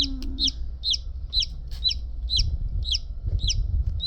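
A newly hatched chick peeping: a steady run of short, high calls, each falling in pitch, about two a second.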